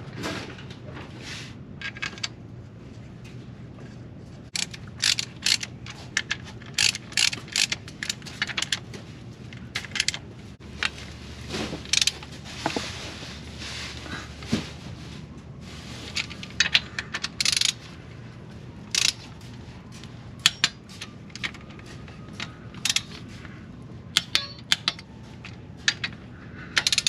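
Irregular metallic clicks and clinks of tools and engine parts, some in quick clusters, as a connecting rod bearing cap is fitted onto the rod.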